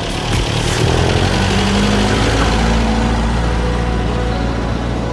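Car engine running with a low, steady note that swells about a second in and slowly fades.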